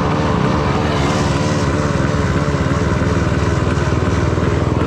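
Dirt bike engine running at fairly low, steady revs, its pitch wavering slightly up and down.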